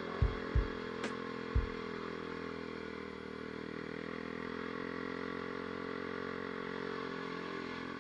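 Aprilia RX125 single-cylinder motorcycle engine running at steady revs while riding, with a few low thumps in the first two seconds.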